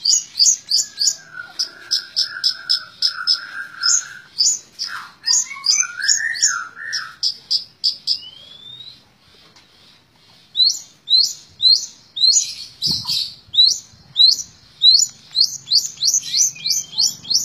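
Long-tailed shrike (cendet) singing its rapid 'tembak ngebren' call: a fast run of sharp, high repeated notes, about four a second, with a lower warbling phrase in the first half. The notes pause for about a second past the middle, then resume.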